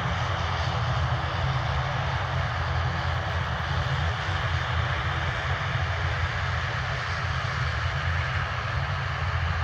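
Aircraft engines running steadily: a constant deep rumble with a broad hiss above it.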